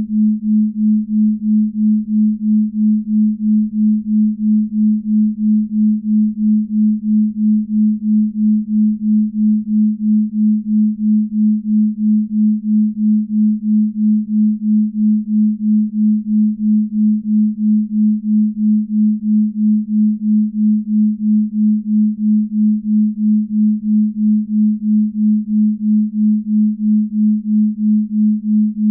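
Binaural beat tone for deep sleep: a steady, low, pure tone near 200 Hz that swells and fades evenly about two and a half times a second.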